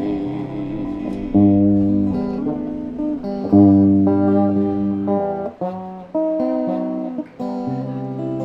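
Acoustic guitar playing an instrumental passage of strummed chords, the chord changing every second or two, in a gap between sung lines of a folk-style song.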